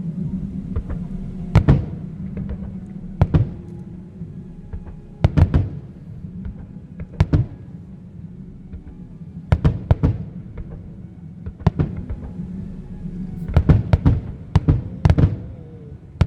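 Fireworks bursting in a series of sharp bangs, one every couple of seconds and a quicker cluster near the end, over the show's music.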